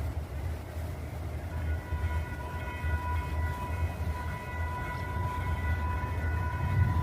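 Light rail train running with a low rumble; about a second and a half in, a steady high-pitched ringing tone joins in and holds, while the rumble grows louder toward the end.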